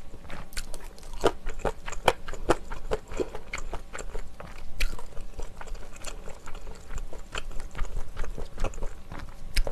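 Close-miked chewing of spicy stir-fried mala xiang guo with Chinese glass noodles: irregular wet mouth clicks and smacks, several a second.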